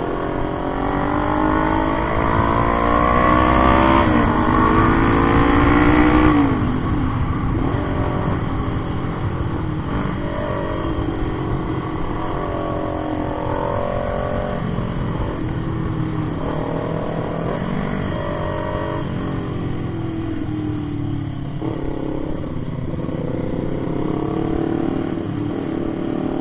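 Motorcycle engine running under way, its pitch climbing steadily for about six seconds, then dropping sharply, then rising and falling with the throttle for the rest of the time.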